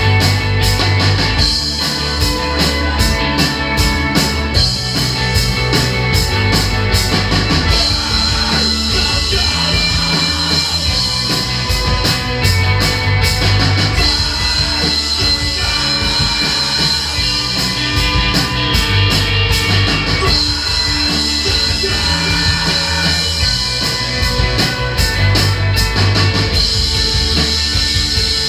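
A rock band playing loudly and continuously, with drum kit, guitar and a moving bass line.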